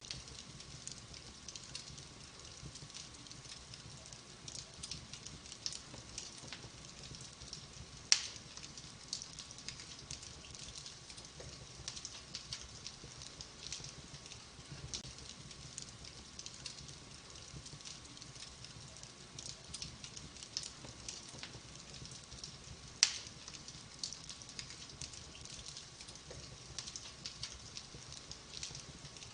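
Wood fire in a fireplace crackling, with frequent small snaps and two louder pops, about 8 seconds in and about 23 seconds in.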